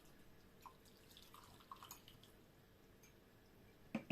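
Hot water poured faintly into a cup over a tea bag, with small liquid trickling and dripping sounds, and a sharp knock near the end.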